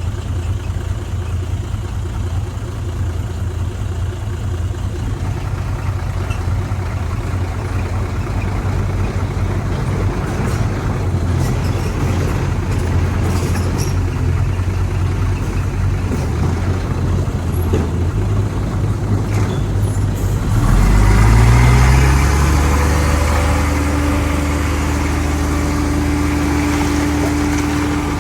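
Heavy diesel earthmoving machinery running steadily. About two-thirds of the way through the engine revs up, gets louder, and then holds at a higher pitch, as under load.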